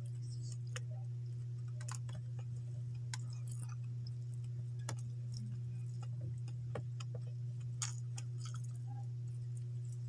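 Close-up chewing: scattered short wet clicks and smacks of a mouth eating rice and fish by hand, over a steady low hum.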